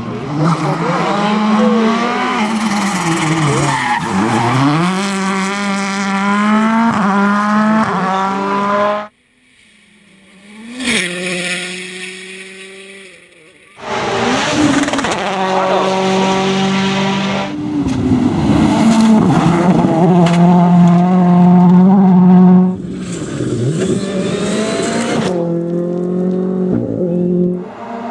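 2014 World Rally Cars' turbocharged 1.6-litre four-cylinder engines running hard on the stage, rising in pitch through upshifts and dropping off, across several passes with abrupt changes between them. About 9 seconds in the sound drops to a faint, distant car for a few seconds before loud engine sound returns.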